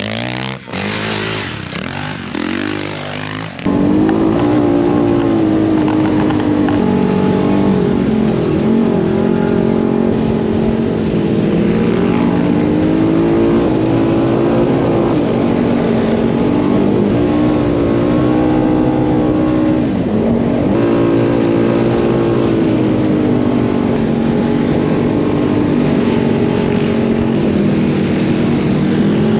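Off-road vehicle engine running under way, its note rising and falling with the throttle. About three and a half seconds in it suddenly gets louder and stays loud.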